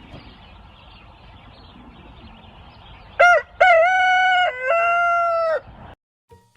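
Rooster crowing once, a full cock-a-doodle-doo about three seconds in: a short opening note, then two long held notes, the last slightly lower. Before it there is only a faint outdoor background hiss.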